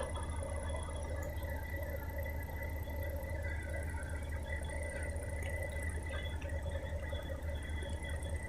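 A heavy diesel logging machine, the delimber working pine logs, running steadily with a low drone and a thin, steady high whine above it.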